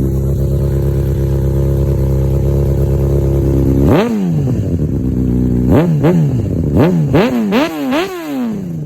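2013 Honda CBR600RR's inline-four engine idling steadily shortly after a cold start, then revved: one sharp throttle blip about four seconds in, followed by a quick run of about five short blips, each rising fast and falling back.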